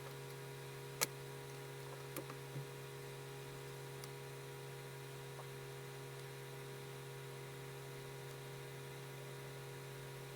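Steady electrical hum with a few small clicks: a sharp one about a second in and a few fainter ones around two seconds later.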